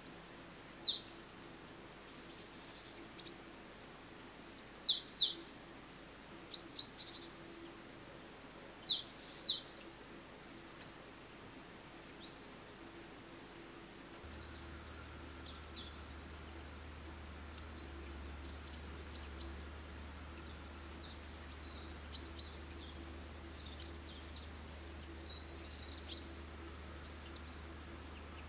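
Wild birds calling: loud, sharp, falling chirps, mostly in pairs, a few seconds apart. About halfway through they give way to a busier scatter of small high twitters over a steady low hum.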